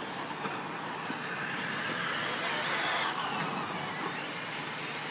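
Radio-controlled short course trucks running on a dirt track, their motors making faint whines that rise and fall in pitch over a steady wash of noise.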